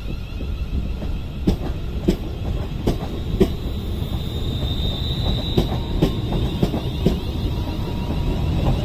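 London Northwestern Railway Class 350 Desiro electric multiple unit moving along the platform. Its wheels click over the rail joints in an uneven rhythm, about two a second, under a steady rumble, and a thin high whine swells about five seconds in.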